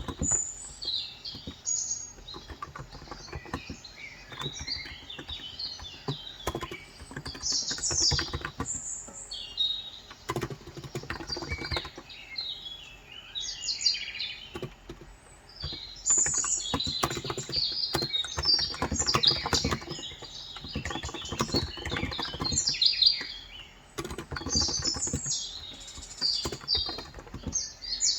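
Typing on a Cox Endeavor electrostatic-capacitive (Topre-style) tenkeyless keyboard with 35 g switches, the keystrokes coming in quick runs with short pauses between them. Many small birds chirp throughout.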